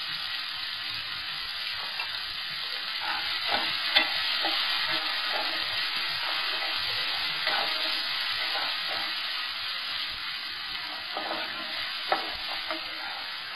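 Chopped onion and tomato with turmeric sizzling in hot oil in a non-stick pan, stirred with a wooden spatula that knocks against the pan a few times.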